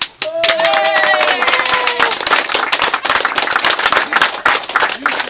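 A crowd clapping steadily, with a voice calling out in the first couple of seconds.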